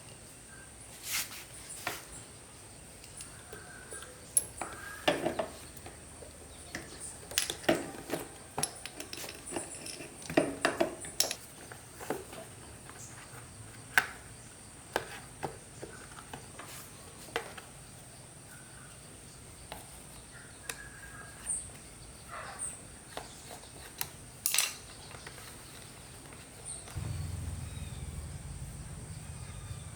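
Irregular clinks and taps of metal tools and engine parts being handled during a motorbike engine repair, some close and sharp, some faint. A low hum comes in near the end.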